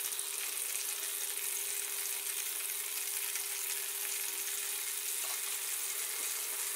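Chicken kofta meatballs frying in shallow oil in an aluminium karahi, making a steady, even sizzle, with a faint steady hum underneath. The oil is only lightly heated, so the sizzle is gentle.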